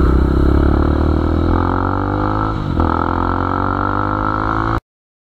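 Vehicle engine accelerating, its pitch climbing steadily, with a short dip about two and a half seconds in as it shifts gear, then climbing again. The sound cuts off abruptly near the end.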